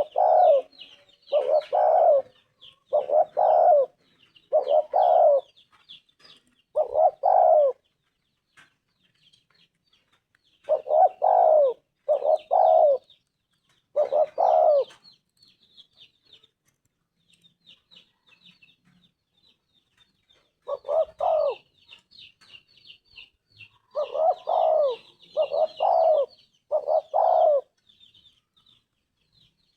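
Spotted dove cooing: repeated mellow coo notes in short runs of a few notes each, separated by pauses of several seconds.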